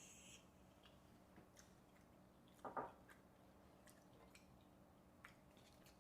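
Faint eating sounds from a person chewing spicy ramen: soft, wet mouth clicks, with one louder short sound a little before the middle.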